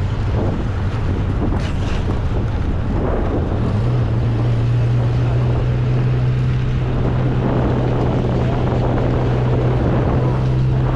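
1275cc MG Midget's four-cylinder engine running at a steady cruise, heard from the open-top cabin with wind rushing over the microphone. The engine note rises a little about four seconds in and then holds steady.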